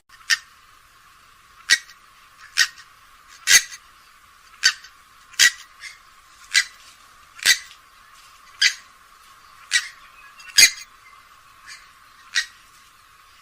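Grey-headed swamphen giving short, sharp call notes about once a second, roughly a dozen in a row.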